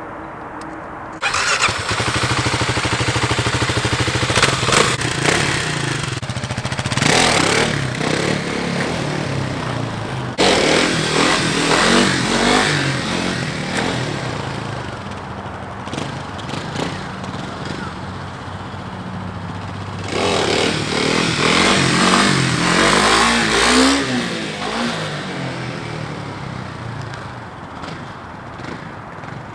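Kawasaki KLX 300 single-cylinder four-stroke engine revving hard for clutch-up wheelies. It jumps suddenly from a low idle a second in, then surges and drops in pitch several times, with the last big pull near the two-thirds mark before the engine fades away.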